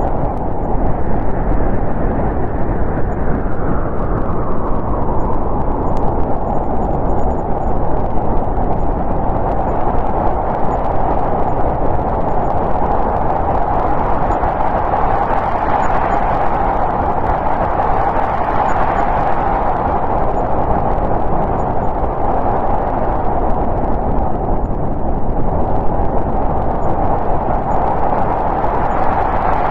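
Winter storm wind blowing steadily, with slow gusts that swell and ease every several seconds.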